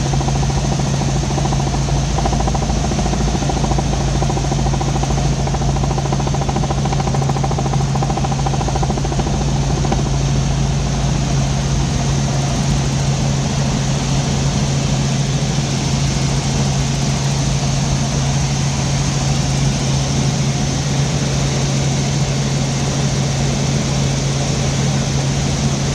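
Helicopter in flight: a steady drone of engine and rotors with a strong low hum. The deepest rumble eases a little about halfway through.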